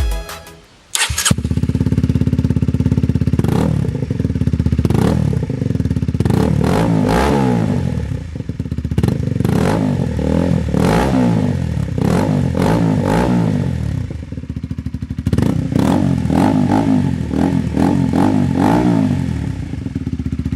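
Honda CBR125R's single-cylinder four-stroke engine starting up about a second in, then idling and being revved several times, the pitch rising and falling with each blip of the throttle.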